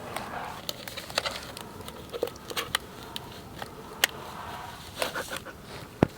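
Scattered light clicks and taps over low room noise, with faint rustling.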